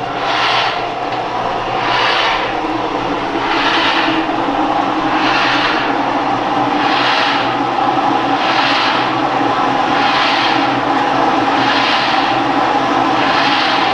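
Kayak and canoe ergometer running under steady paddling: a continuous whirr that surges with a rushing hiss about every one and a half seconds, once per paddle stroke.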